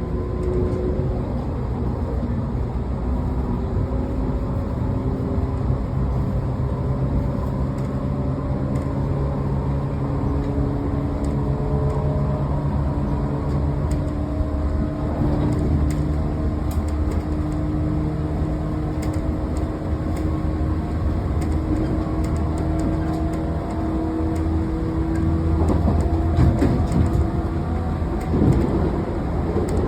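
Running sound of a JR 113 series electric train heard from inside the motor car: the traction motors and gears whine over the low rumble of wheels on rail, the whine climbing in pitch through the first half as the train gains speed and then holding steady. The MT54 DC traction motor drone typical of old JNR-type cars.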